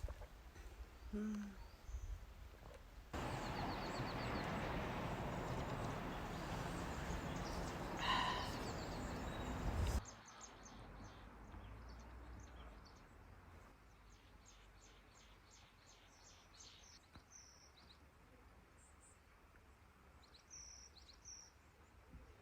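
Small forest birds chirping, with short high calls scattered through the second half. Before them, several seconds of steady hiss-like noise start suddenly and cut off abruptly about ten seconds in.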